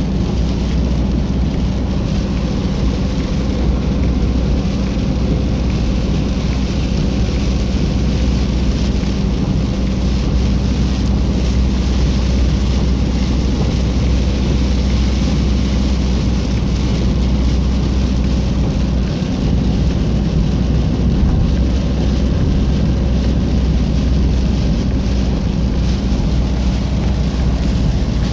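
Steady cabin noise of a car cruising at about 80 km/h: tyre and road hiss with a low engine hum, and the windshield defogger fan blowing.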